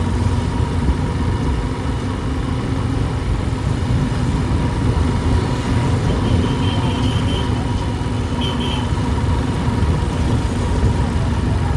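Motorcycle engine running steadily under a ride through city traffic, with the low rumble of street and road noise.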